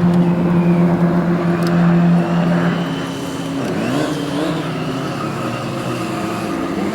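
Vehicle engine held at steady high revs, easing off a little over two seconds in, then briefly revved up and back down about four seconds in.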